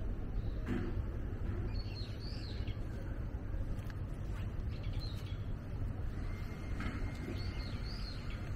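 Small birds chirping in short arching calls, twice: about two seconds in and again near the end, over a steady low rumble of background noise.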